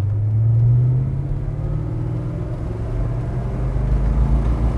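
The Oldsmobile 442's 400 cubic inch V8 with dual exhaust, heard from inside the cabin while the car accelerates. The engine note rises for about two seconds, drops away, then the engine pulls again at a lower, deeper pitch and grows louder, as with a gear change on the four-speed manual.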